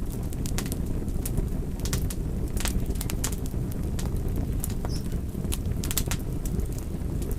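Fire crackling: a steady low rumble of flames with scattered, irregular sharp pops and snaps.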